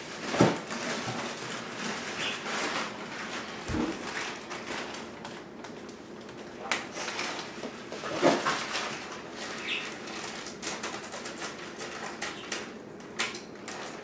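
Pet budgerigar making a few short chirps, amid scattered small clicks and taps.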